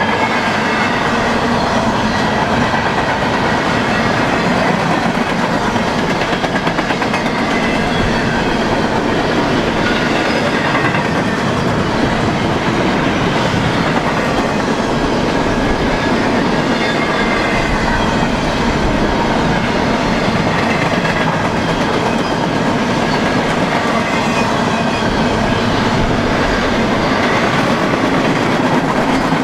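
BNSF freight train cars rolling past, a steady loud noise of steel wheels running on the rails.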